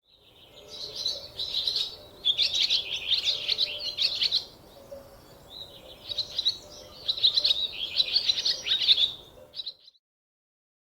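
Squirrel calling with rapid, high-pitched chirps in two long bouts, the second starting about six seconds in.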